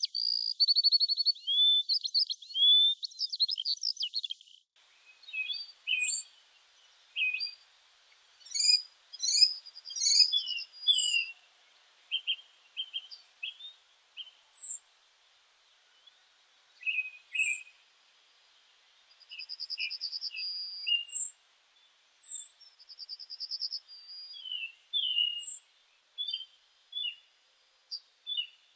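Several songbirds singing and calling. A dense run of warbling song gives way abruptly, about five seconds in, to scattered calls: thin high notes repeating every couple of seconds, short buzzy trills and chirps, with quiet gaps between.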